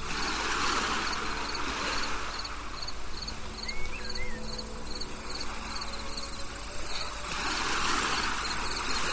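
Crickets chirping in an even rhythm, about three chirps a second, over a constant high insect whine. A soft rushing swells and fades near the start and again near the end, and a short warbling note sounds about four seconds in.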